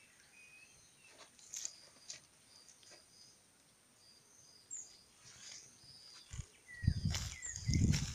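Wild birds calling with short, high chirps and whistles scattered throughout, along with a few clicks. From about seven seconds in, bursts of low rumbling become the loudest sound.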